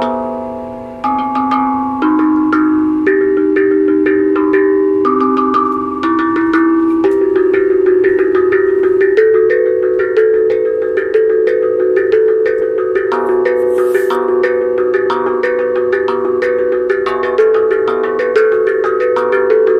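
A tuned percussion instrument struck note by note, playing a melody of ringing, overlapping tones. The strikes come quicker and denser in the second half.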